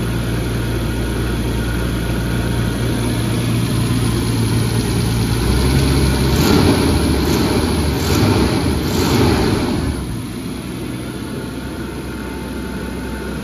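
1994 Jaguar XJ12's 6.0-litre V12 running warm at idle, smooth with its exhaust manifold-to-collector donut gaskets newly replaced. From about five and a half seconds in the revs are raised a few times by hand at the throttle linkage, then drop back to idle near ten seconds.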